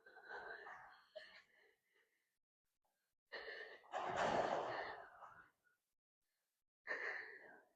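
A man's heavy, breathy exhales and strained grunts in three bursts, the loudest about four seconds in, as he labours with physical effort.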